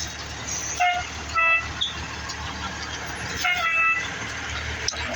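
Emergency vehicle horn sounding three short blasts at a steady pitch, the third one longest, over the low rumble of idling engines and traffic.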